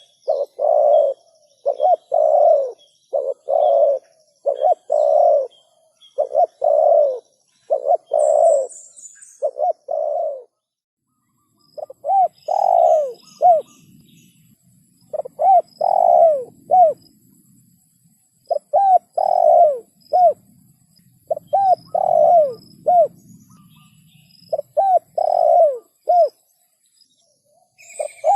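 Spotted dove (tekukur) cooing over and over, a clear lure call. Quick evenly spaced coos for the first ten seconds give way, after a brief pause, to phrases of three or four coos, each note falling in pitch.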